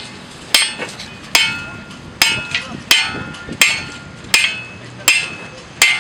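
Hammer blows on a hot Damascus face laid on a steel post anvil, about eight evenly spaced strikes, each leaving a bright metallic ring: the face is being forge-welded to the anvil, and the clear ring is taken as the sign the weld is getting solid.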